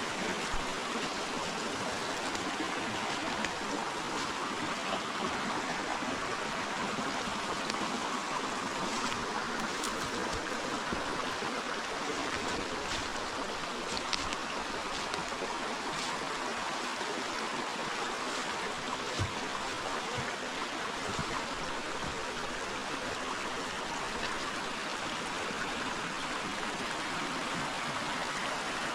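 Forest river flowing steadily, an even rush of moving water, with a few faint clicks scattered through the middle.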